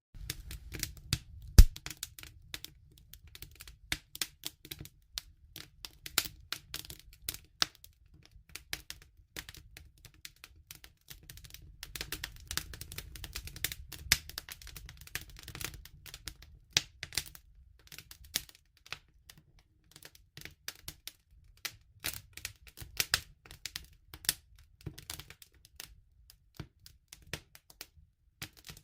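Wood campfire crackling and popping: irregular sharp snaps of burning wood, with one loud pop about a second and a half in, over a low rumble of the flames.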